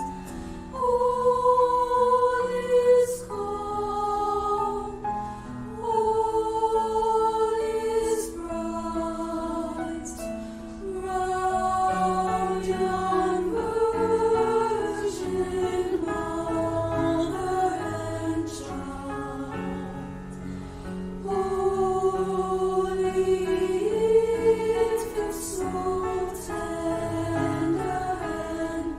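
A choir singing a slow piece in harmony, with long held notes that change every second or two.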